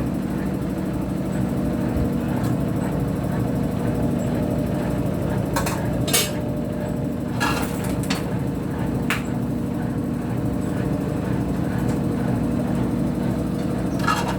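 Consul Facilite washing machine running with a steady motor hum, with a few sharp knocks or clatters in the middle and one near the end.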